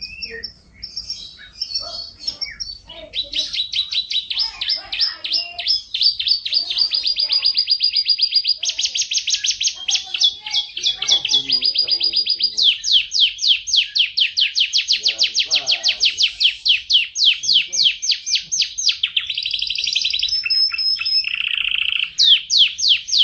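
Canary singing a long, unbroken song of rapid repeated trills, switching from one trill pattern to the next every second or few seconds.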